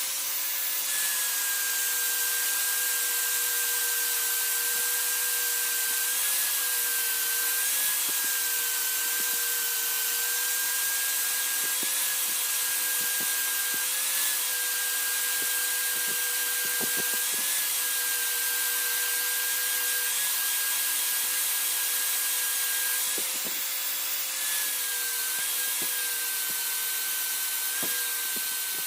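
An electric power tool runs steadily as it works a piece. Its motor pitch dips slightly every few seconds as the tool is pressed into the work.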